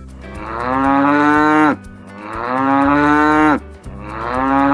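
A cow mooing: three long moos in a row, each swelling in loudness, the first two breaking off sharply.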